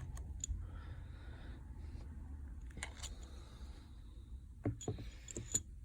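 A few faint, sharp clicks and taps of a phone and small repair tools being handled on a work surface, over a steady low hum.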